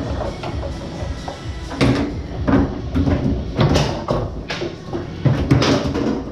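Foosball rally on a Tornado table: the rods slide and rattle and the ball rolls, with several sharp clacks of the ball struck by the players, the loudest near the end.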